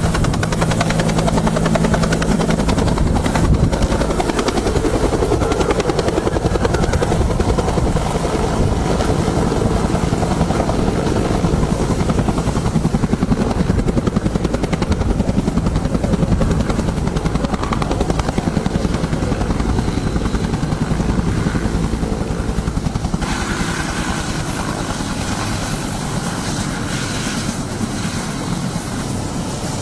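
Helicopter rotor and engine running, a fast, steady chop of the blades that grows a little quieter in the last few seconds.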